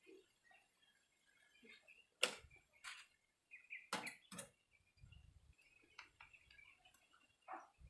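Near silence broken by a few faint, sharp clicks or taps, the loudest about two seconds in and two close together about four seconds in.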